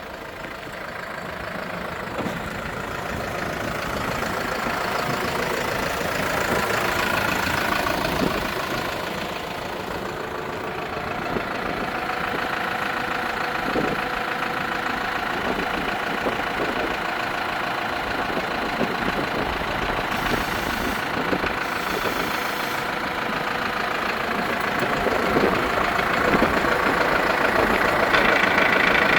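Case 95 MFWD tractor's diesel engine running steadily, growing louder over the first several seconds and again near the end.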